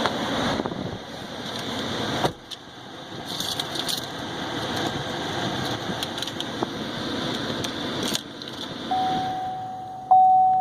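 Rustling and handling noise in and around a pickup truck's cab, with keys jangling; the noise cuts off suddenly about two seconds in, and a few knocks follow. Near the end a steady electronic chime tone starts and keeps sounding.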